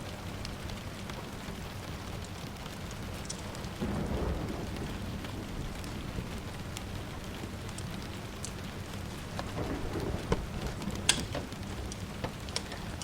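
Steady rain falling, with low rolls of distant thunder swelling about four seconds in and again around ten seconds. A few sharp pops from a crackling wood fire sound over it, the loudest just after eleven seconds.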